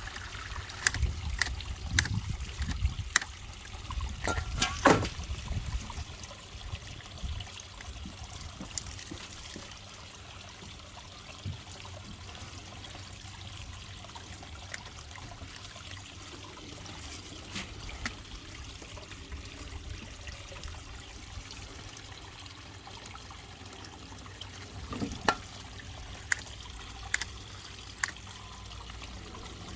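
Water trickling steadily from a garden pond's pump-fed waterfall, with scattered sharp clicks, several in the first five seconds and again near the end.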